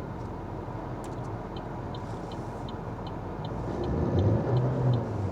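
Car engine running and heard from inside the cabin, revving harder about four seconds in as the driver tries to drive the car out of snow it is stuck in. A steady light ticking, about two or three a second, runs alongside.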